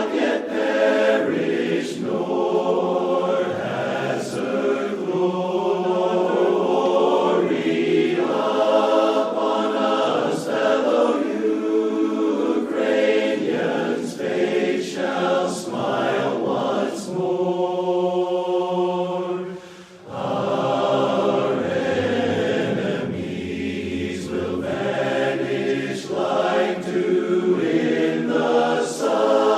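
A choir singing slow, sustained notes. The sound dips briefly about twenty seconds in, then the singing picks up again.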